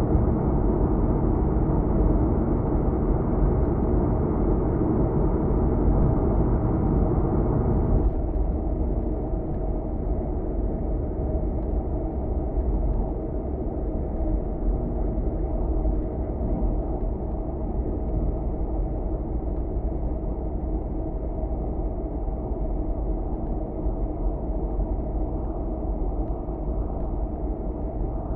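Steady road and engine noise from a moving car, a low rumble of tyres on the road. About eight seconds in, the higher part of the noise drops away suddenly and stays quieter.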